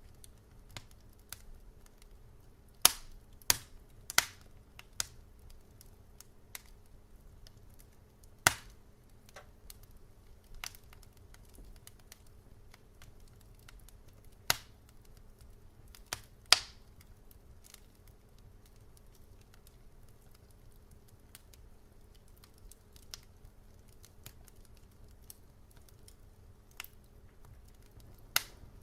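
Wood fire crackling in a fireplace: irregular sharp pops and snaps, a few loud ones among many small ticks, over a faint low hiss.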